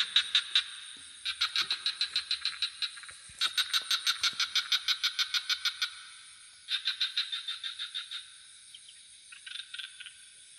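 Frogs calling in repeated bouts of fast pulsed trills, about ten pulses a second, each bout lasting one to two and a half seconds with short gaps between. A steady high insect drone runs underneath.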